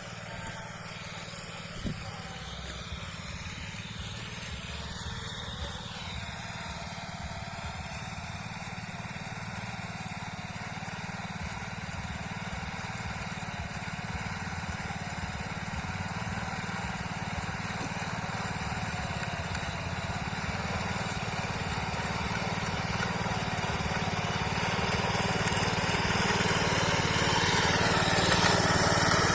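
Small power weeder's engine running steadily as it tills the soil, growing gradually louder.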